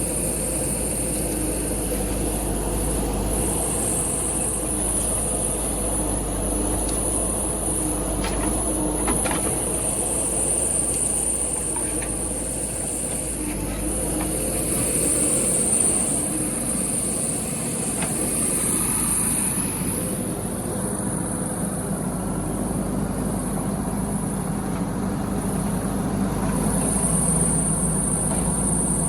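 Diesel engine of a JCB 3DX backhoe loader running steadily, with a few faint knocks and a constant high-pitched hiss over it.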